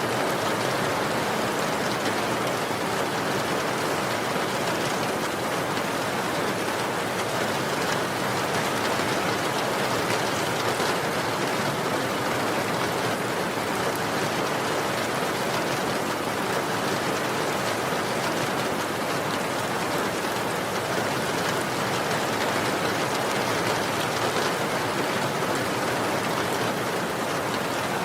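Steady rain falling, a dense, even hiss of drops with fine pattering, unchanging throughout.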